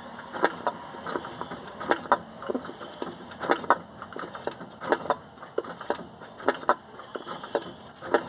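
Diesel engine running with a heavy knock that comes in clusters about every second and a half, with lighter knocks between: an internal knock suspected to be a connecting rod or a piston.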